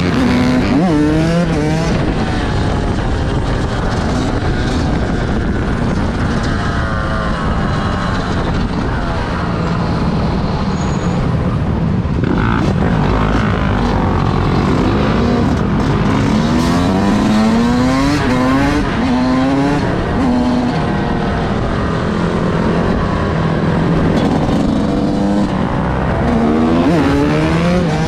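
Several vehicle engines revving hard and overlapping, their pitch sweeping up again and again as they rev and accelerate, then falling back.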